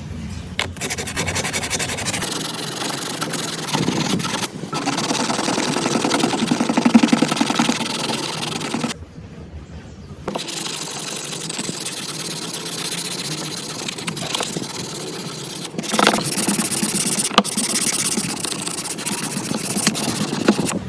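Handheld power tool running against metal parts with a steady grinding scrape. It cuts out for about a second and a half around nine seconds in, then starts again.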